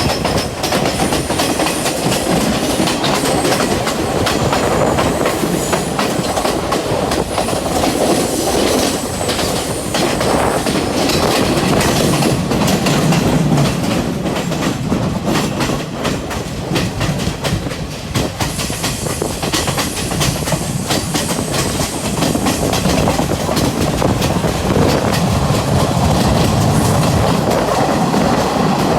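Train running along the track with a steady rumble and the continuous clickety-clack of wheels over the rails.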